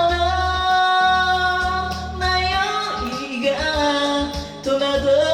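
Karaoke cover of a J-pop song: a voice singing over the backing track, holding one long note for about the first two seconds, then moving through shorter notes.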